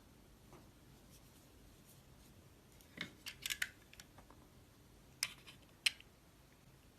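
A blade cutting into soap, with crisp crunching snaps: a quick cluster of cuts about three seconds in, then two single sharp cuts near the end.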